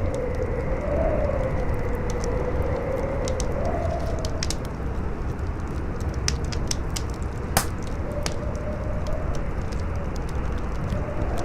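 Campfire crackling with scattered pops, one sharper than the rest about seven and a half seconds in, over a steady howling wind whose whistle wavers up and down in pitch.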